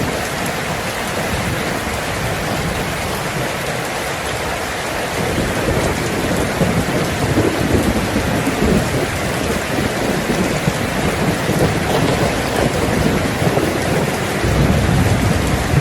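Heavy rain falling on a tin roof, a steady hiss, with rolling thunder rumbling in from about five seconds in and swelling again near the end.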